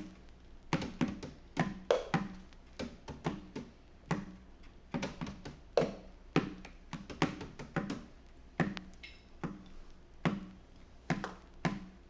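Sparse, loose percussion in an experimental band recording: drum and tap-like hits, a few per second in an uneven rhythm, some with a short pitched ring.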